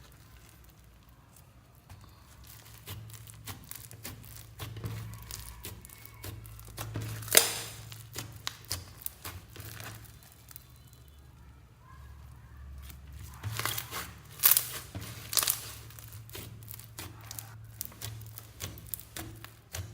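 Slime being worked by hand: a run of small sticky crackles and clicks, with a few sharper pops, the loudest about seven seconds in and two more around fourteen to fifteen seconds in.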